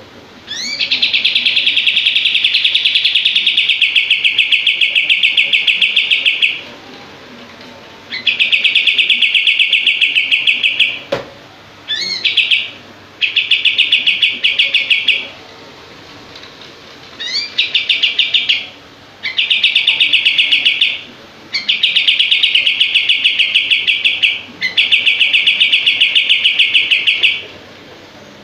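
Kapas tembak songbird singing: about eight loud phrases of fast, tightly packed repeated notes, each opening with a quick rising note, with short pauses between them. The rapid-fire 'shooting' runs are the call the bird is named for.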